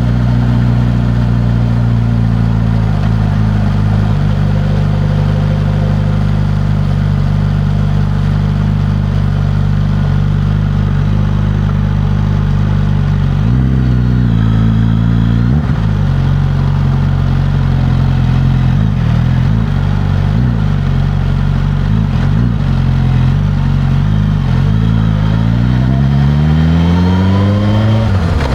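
Suzuki GSX-S1000's inline-four engine through its stock exhaust, running at steady revs while riding. The pitch dips and recovers a few times around the middle, then climbs steadily near the end as the bike accelerates.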